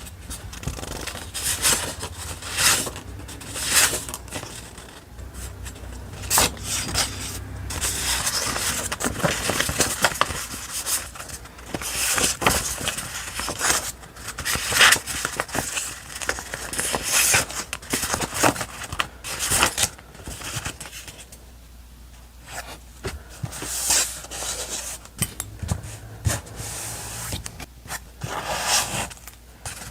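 Paper and stickers being handled on a journal page, heard as short, irregular scrapes and rustles of paper.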